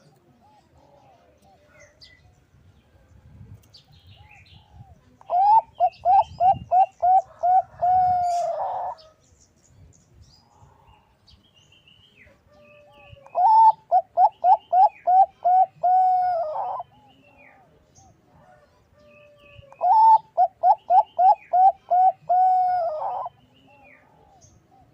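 Zebra dove (Bangkok-type perkutut) cooing: three song phrases several seconds apart, each a quick run of about eight short coos ending in a longer drawn-out note.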